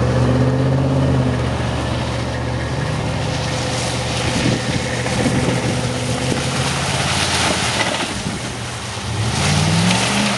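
Dodge pickup truck engine running as the truck drives, with its pitch climbing as it revs up near the end.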